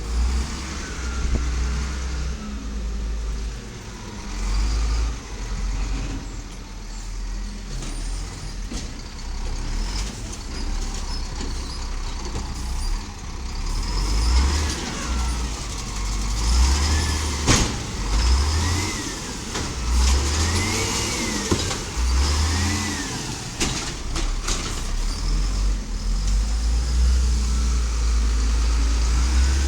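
1999 Volvo diesel garbage truck with an Amrep Octo automated side-loader body, running. Through the middle a rising-and-falling whine repeats several times, and there is one sharp bang.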